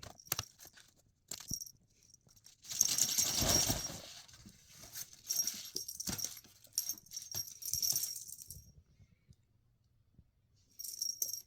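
Small metal bells jingling in irregular shakes, with a louder rustle about three seconds in.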